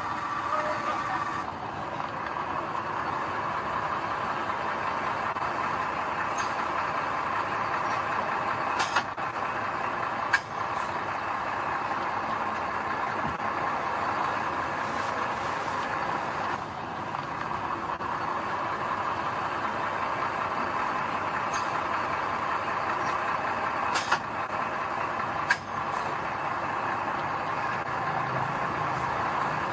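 Heavy construction machinery working, a diesel engine running steadily, with a few sharp knocks about a third of the way in and again later.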